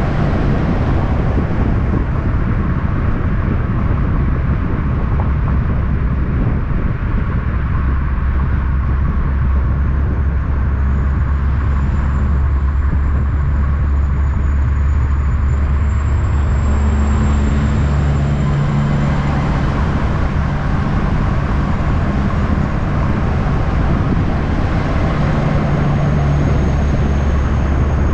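Steady, loud low rumble of a vehicle engine and road noise, the engine note stepping down and back up a few times.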